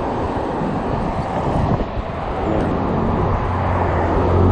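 Gusty wind buffeting the microphone on a moving e-bike. A steady low engine hum from a nearby vehicle builds up over the last second or so.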